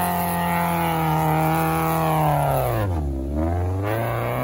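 Off-road race car's engine running hard at high revs. About three seconds in the revs drop sharply, as the throttle is let off, then climb again.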